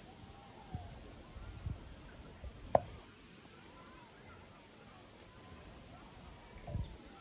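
Small aviary songbirds giving faint short chirps and calls, with a few light knocks scattered through. A single sharp click a little under three seconds in is the loudest sound.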